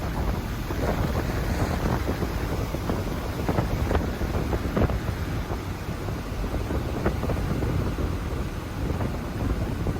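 Strong gusty wind beating on the microphone, a heavy low rumbling rush that swells and dips, with a few brief knocks in the middle.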